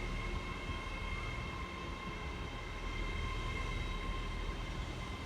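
A train at a station platform, with a steady low rumble and constant high-pitched tones running evenly throughout.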